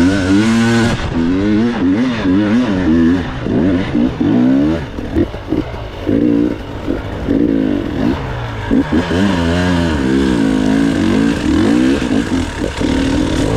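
Enduro motorcycle engine revving up and down over and over, with a run of short throttle blips and cut-offs in the middle.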